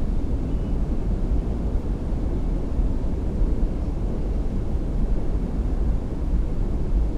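A steady low rumble with no distinct tones or clicks.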